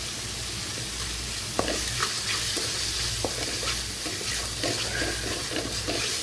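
Red chilli-tomato sauce sizzling in oil in a metal kadai, with a wooden spatula stirring it. From about a second and a half in, the spatula knocks and scrapes against the pan several times a second.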